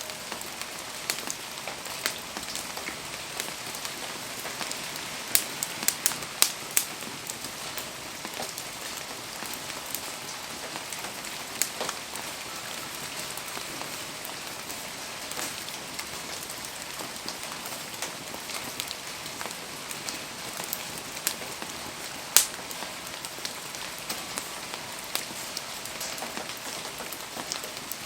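Steady rain hiss with a wood fire popping sharply now and then: a cluster of pops about five to seven seconds in, and the loudest single pop about twenty-two seconds in.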